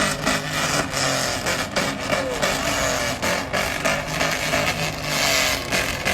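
Pickup truck engines and exhausts running loudly as trucks pass, with no single clear rev.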